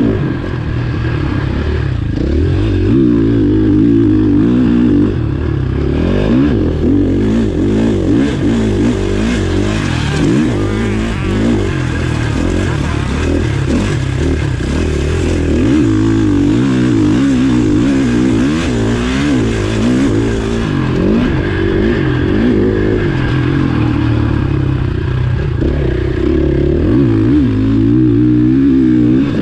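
Motocross bike engine revving hard and easing off over and over, its pitch rising and falling constantly, heard close up from an onboard camera.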